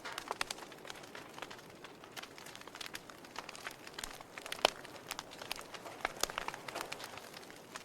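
Wood fire burning in a fireplace: steady soft hiss with irregular crackles and pops, the loudest pop about two-thirds of the way through.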